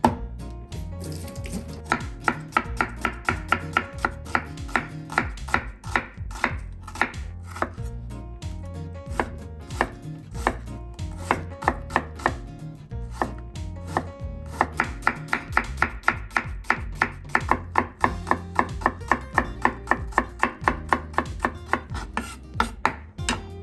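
Kitchen knife chopping vegetables on a cutting board in quick, even strokes, about four a second, in two long runs with a short break in the middle.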